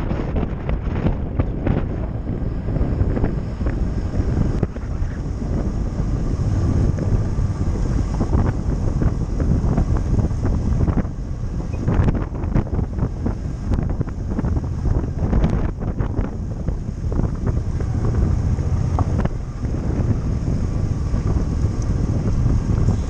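Wind buffeting a helmet-mounted microphone on a moving motorcycle, with the bike's engine running steadily underneath.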